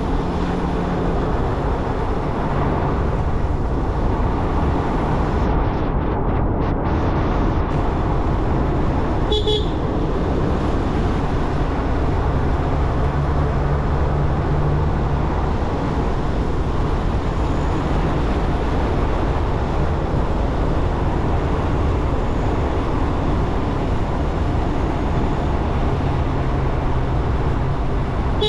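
Motorcycle engine running steadily under wind and road noise, with a short vehicle horn toot about nine and a half seconds in.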